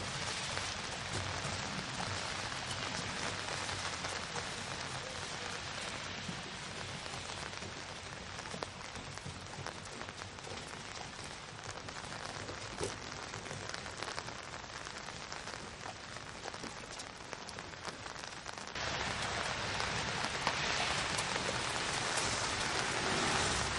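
Steady rain pattering, a dense even hiss of drops that gets louder about three-quarters of the way through.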